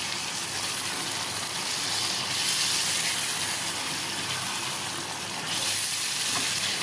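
Chicken pieces with yogurt and spices sizzling hard in hot ghee in a karahi, a steady loud hiss that swells louder about two seconds in and again about five and a half seconds in. This is the bhunai stage, frying the yogurt masala down into the meat.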